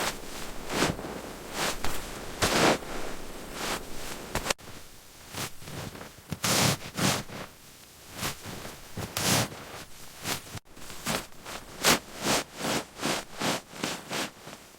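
Repeated crunching and scraping strokes in snow, slow and uneven at first, then coming about two to three a second near the end.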